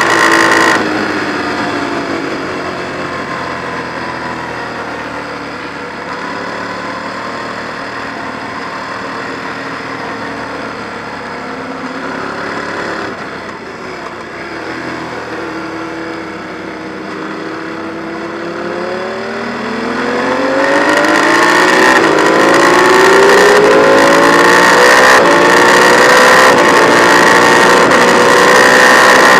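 Ducati 1098's L-twin engine heard from on board the bike: revs drop as the throttle closes just after the start, then it runs at part throttle through a long corner, and from about two-thirds of the way in it revs up steadily and louder under hard acceleration.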